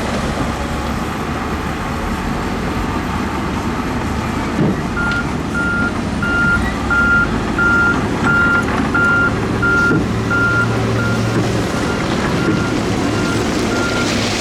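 Construction machine's reversing alarm beeping about twice a second, starting about five seconds in and growing fainter near the end, over the steady running of heavy diesel engines.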